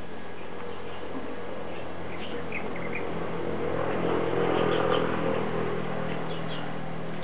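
Birds chirping in short, scattered calls over a steady outdoor background hum. A broad swell of noise builds a little past the middle and is the loudest part, then fades.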